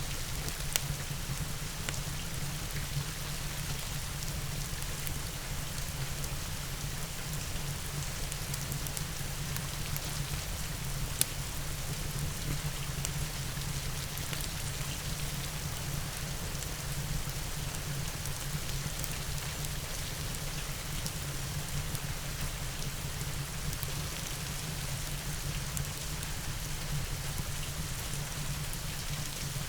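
Steady rain falling, over a low steady rumble, with occasional sharp pops from a crackling wood fire, the loudest about eleven seconds in.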